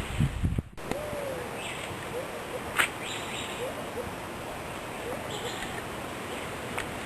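A bird calling in short, low hooting notes that bend in pitch, repeated every second or so over a steady outdoor hiss. A loud low rumble fills the first moment before cutting off abruptly, and a sharp click comes about three seconds in.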